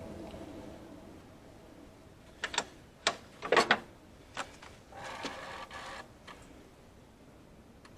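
Several sharp knocks and clatters, then about a second of mechanical whirring.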